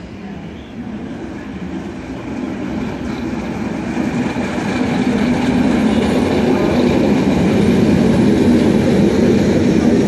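Electric locomotive hauling double-deck passenger coaches, rolling past on the rails. The steady rumble of wheels and running gear grows louder through the first half as the train draws close, then holds level as the coaches go by.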